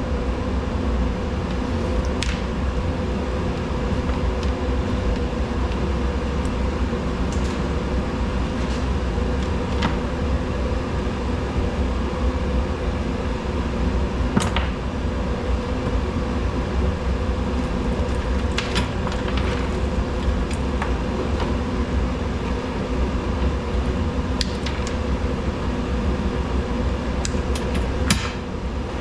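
Steady mechanical hum with a low rumble and a faint constant whine, from a running fan or similar machine. Scattered light clicks and taps sound over it, the plainest about halfway through and near the end.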